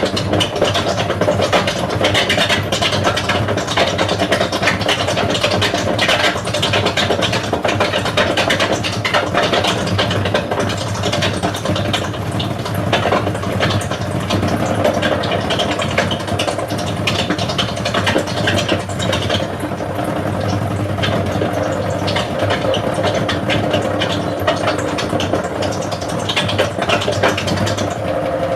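Hotpoint Aquarius WML540 washing machine in its spin cycle, drum spinning fast: a loud, steady motor hum and drum noise with a dense, continuous rattle.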